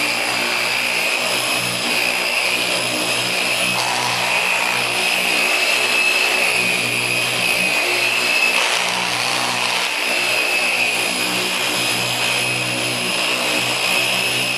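Electric machine polisher running steadily with a constant high whine, buffing polish into car paint.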